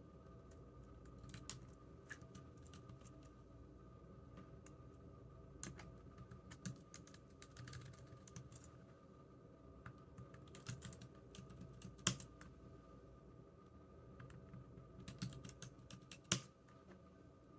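Computer keyboard being typed on in irregular runs of key clicks with short pauses between, a couple of heavier keystrokes standing out, over a faint steady hum.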